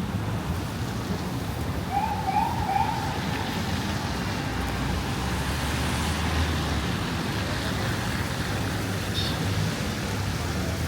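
Steady noise of a rainy city street, traffic and rain, with three quick rising siren whoops about two seconds in, the short yelp of an emergency vehicle's siren.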